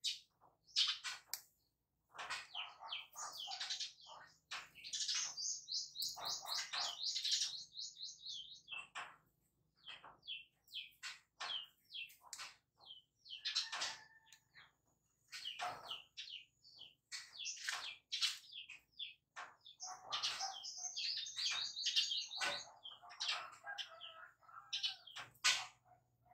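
Small birds chirping, with quick rapid-fire trills of high notes, twice in long runs, among scattered single calls and a few lower whistled notes near the end.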